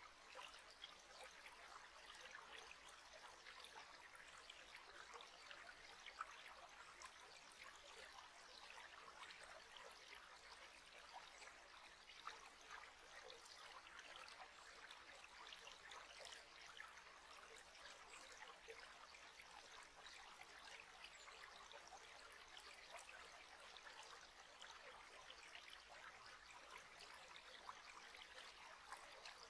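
Faint, steady trickle of flowing water, as of a small stream, with many small splashes and no pause.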